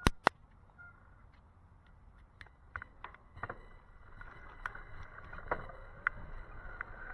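Raindrops tapping irregularly on the camera over a soft hiss of rain, the taps coming more often as it goes on; two sharp clicks right at the start.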